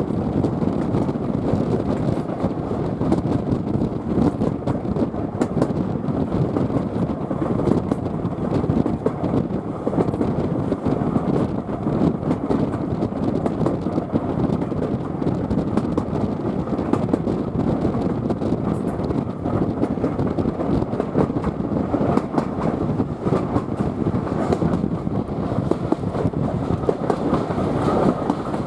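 Heritage steam train's carriage rolling along the line: a steady rumble of wheels on the rails with faint scattered clicks.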